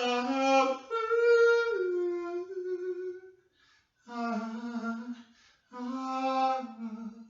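A person humming a wordless tune in three phrases of long held notes, the first phrase the longest and sliding down in pitch partway through.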